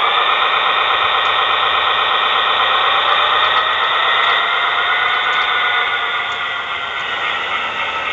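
Model train locomotive's small electric motor and gearing giving a steady whine as it runs along the track.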